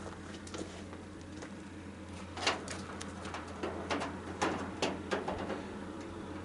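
Scattered clicks and knocks of hand work on a tanning bed's metal parts and wiring as it is dismantled for scrap, over a steady low hum.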